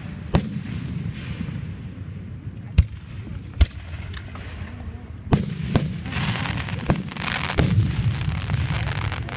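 Aerial fireworks shells bursting: about seven sharp bangs at irregular intervals, closer together in the second half, with a hiss between the bangs near the end.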